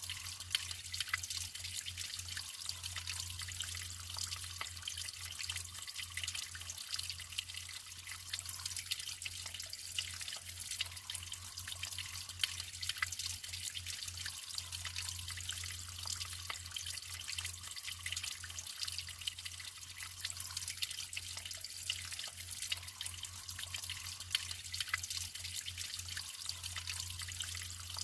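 Naturally flowing water trickling and splashing steadily, with many small drips and splashes, over a low steady hum.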